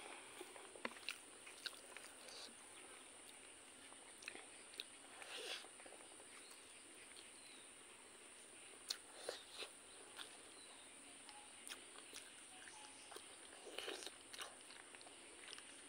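Faint eating sounds: chewing and bites of rice and pork curry eaten by hand, heard as scattered short clicks and soft crunches, over a steady high hiss.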